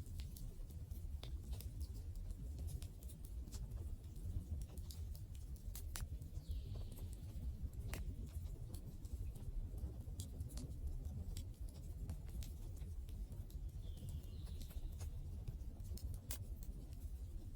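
Wood fire crackling, with irregular sharp pops and snaps over a steady low rumble of the flames. Two brief hisses come through, about a third of the way in and again near three-quarters.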